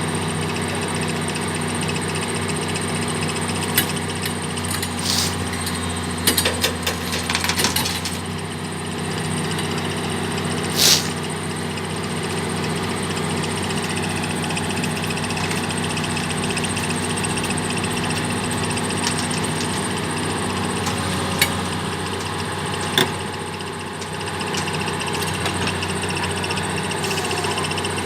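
Heavy diesel engine running steadily at idle, with a few short knocks and clanks over it.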